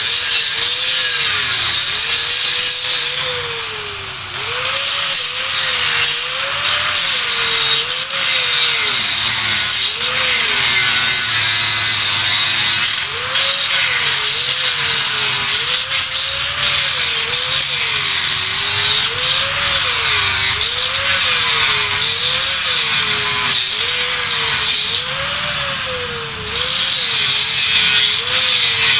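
Handheld electric power tool, a grinder, cutting or grinding metal at length. Its motor pitch repeatedly dips and recovers as it is pressed into the work and eased off, over a loud hiss, with two brief let-ups near the start and near the end.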